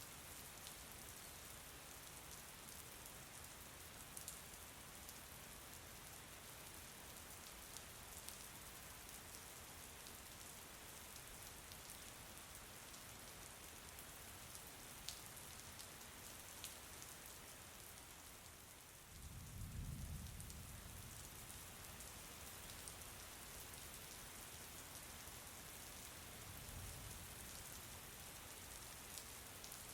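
Faint, steady rain falling, with a low rumble about two-thirds of the way through and a weaker one near the end.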